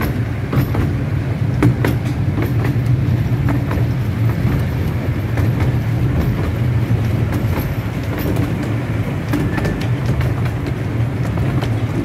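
A 15-inch gauge miniature train running along its track, heard from on board: a steady low rumble with irregular sharp clicks of the wheels over the rails.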